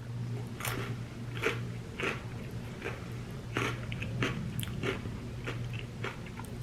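Close-up chewing of crunchy Cheetos coated in nacho cheese and sour cream: a string of irregular wet crunches.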